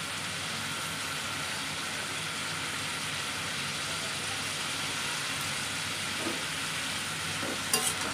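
Chopped raw papaya frying in a kadhai with a steady sizzle. Near the end there are a few clicks of a spatula against the pan.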